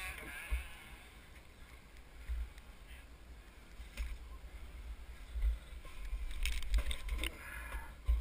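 Wind rumbling on the microphone in uneven gusts, with a few faint scattered knocks and clatter, the most of them near the end.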